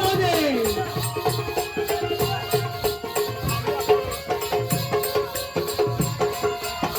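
Live balya (jakhadi) folk dance music: a voice singing, with a falling sung glide just at the start, over a steady rhythm of drum beats and jingling, rattling percussion.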